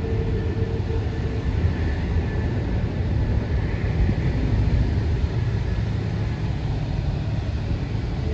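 Airbus A330 jet engines running: a steady, loud low rumble with a faint whine above it.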